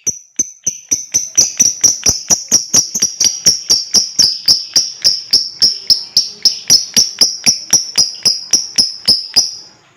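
Lovebird doing its 'ngekek' call: a long run of sharp, high chirps, about five a second, quickening in the first second and stopping just before the end.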